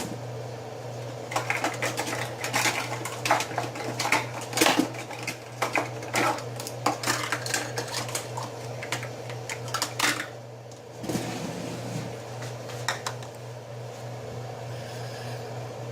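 Kitchen clatter: a run of quick clicks and knocks of utensils and dishes for about ten seconds, then only a few, over a steady low hum.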